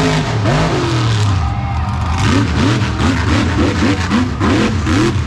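Monster truck engine revving hard. A few longer swells give way, about two seconds in, to a rapid string of throttle blips, about three or four a second.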